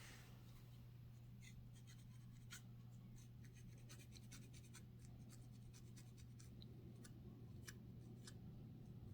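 Faint, irregular dry scratching on a scalp, loosening dandruff, heard as a run of small crackly scratches several times a second over a steady low hum.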